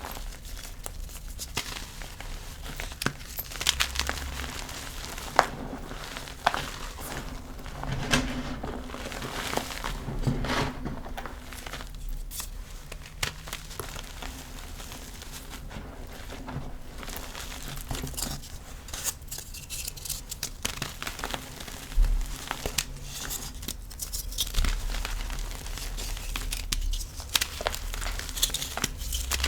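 Blocks of gym chalk being crushed and crumbled, a continuous run of crisp, irregular crunches and crackles with a few sharper snaps.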